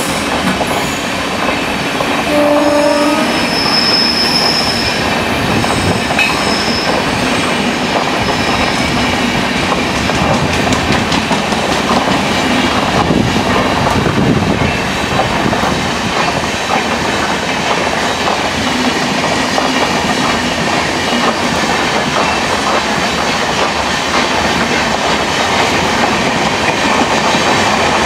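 Express train of passenger coaches behind a WAP-7 electric locomotive running past on the rails: a steady, loud rumble and rattle of wheels on track, with a short pitched tone about three seconds in.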